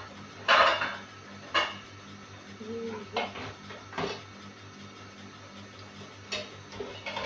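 Kitchen utensils and dishes clattering: about five sharp clinks and knocks, the loudest about half a second in, over a steady low hum.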